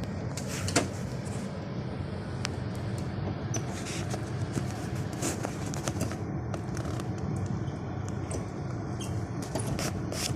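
Strong sandstorm wind buffeting the phone's microphone as a steady low rumble, with many scattered sharp clicks and ticks throughout.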